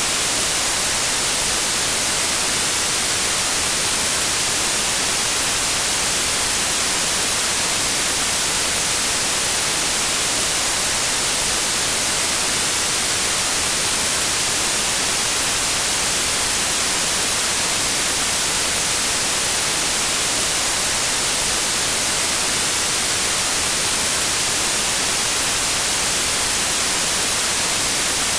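Steady white noise: an even, unchanging hiss, bright and strongest in the high end.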